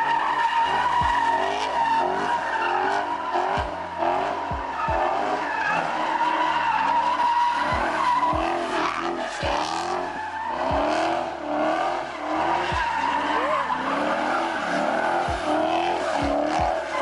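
A car drifting: its tyres squeal steadily while the engine revs up and down again and again. The tyres are being worked hot.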